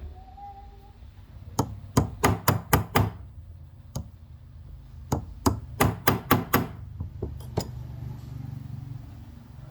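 Hammer blows, sharp and ringing, in two quick runs of about six strikes each with a single blow between them and a few lighter taps near the end.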